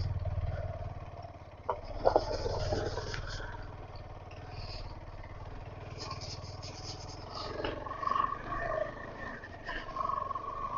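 KTM 250 Adventure's single-cylinder engine running at low speed on a dirt track, a steady low rumble, with a few short knocks about two seconds in.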